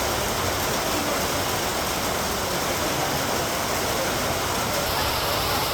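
Rain falling steadily: an even, unbroken rush of noise.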